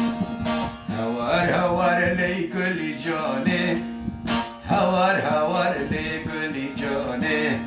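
Kurdish folk music, instrumental: a plucked string instrument plays a melody over a steady held drone note, with a few sharp accented strokes.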